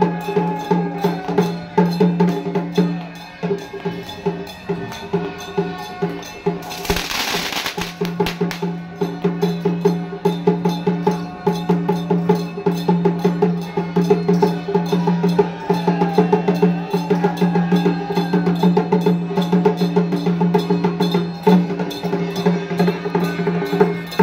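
Traditional temple procession music: fast, continuous drum and wood-block strokes over a steady sustained tone, with a short burst of noise about seven seconds in.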